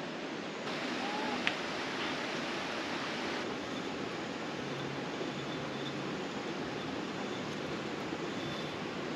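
Steady rushing noise of flowing water, like a stream, with a single sharp click about a second and a half in.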